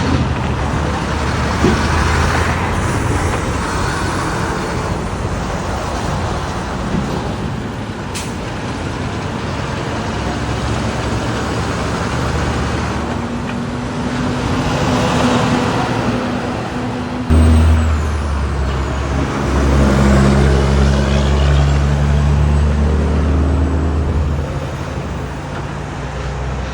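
Road traffic with semi-trucks going by. Over the second half a big-rig diesel engine comes in, starting suddenly and loud about two-thirds of the way through as a low drone, then easing off near the end.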